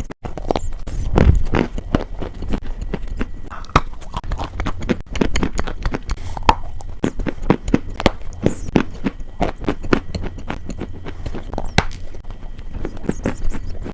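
Close-miked ASMR crunching: a dense, irregular run of crisp crackling clicks, as of something crunchy being bitten and chewed, over a steady low hum.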